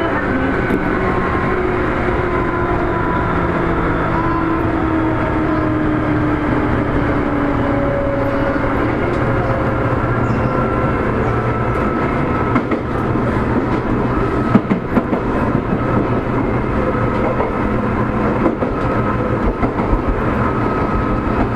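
Seibu 2000 series electric train running, its motor and gear whine falling in pitch as it slows, over a steady low hum and rumble. From about halfway on, a few short knocks of the wheels over rail joints.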